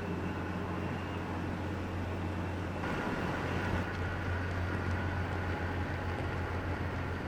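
Lake freighter John G. Munson's diesel engines giving a steady low hum as she passes. A faint, higher steady tone joins about three seconds in.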